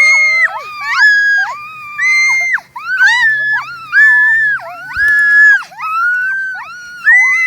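Several birds calling loudly and repeatedly, their calls overlapping: drawn-out, steady-pitched, high calls about half a second long, one or two a second.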